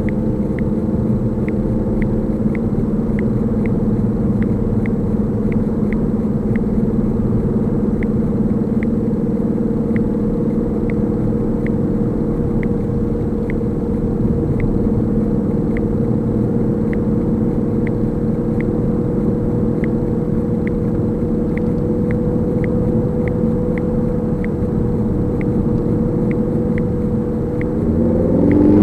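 Vantrue X2 dashcam clicking on its own recording: a small, sharp click repeating evenly at about three every two seconds, the constant clicking fault the owner complains of. Under it runs the steady drone of the car's engine and road noise, which rises and shifts in pitch near the end.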